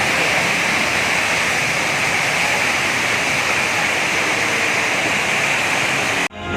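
Loud, steady spraying hiss with no rhythm or pitch, cut off abruptly near the end.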